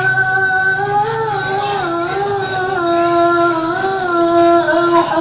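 A child's voice reciting the Quran in melodic tilawah style, holding long ornamented notes that waver and slide between pitches.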